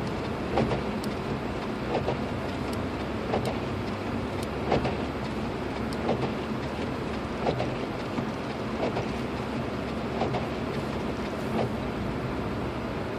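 Inside the cabin of a 2006 Lexus IS250 AWD while driving: steady road and engine noise, with a short knock about every second and a half.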